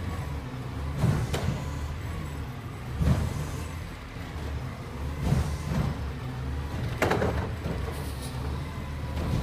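Recycling garbage truck's diesel engine running steadily, with about five loud metallic clunks and bangs spread through, the loudest about three seconds in and about seven seconds in.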